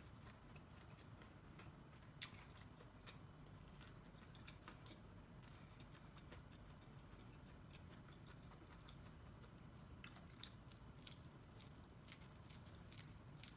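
Faint biting and chewing of corn on the cob: scattered, irregular crisp clicks as kernels are bitten off the cob, over a low steady hum.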